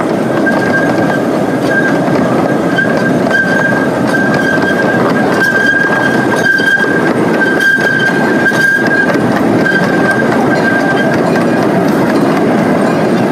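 Train running along the track, heard from on board: a steady rumble of wheels on rail with faint clicks from rail joints. A thin high-pitched whine comes and goes over it.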